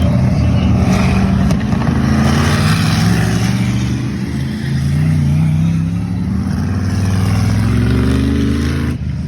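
Racing stock car engines running hard, their pitch rising and falling with the throttle; the sound drops off sharply near the end.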